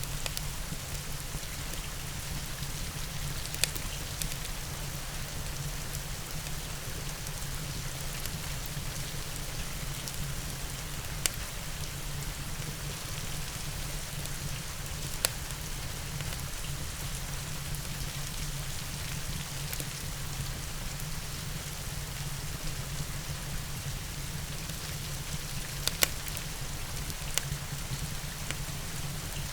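Steady rain with a low rumble beneath it, broken by a few sharp pops several seconds apart from a crackling fireplace.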